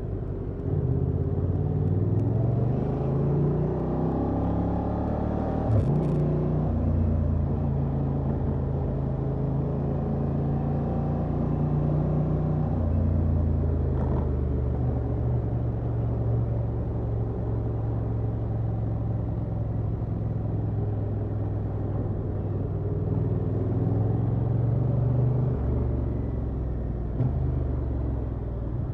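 Honda XL750 Transalp's 755 cc parallel-twin engine through its stock exhaust, pulling up through the gears with a rising pitch that resets at each shift in the first few seconds. It then runs at a fairly steady cruise and rises once more, dropping back near the end.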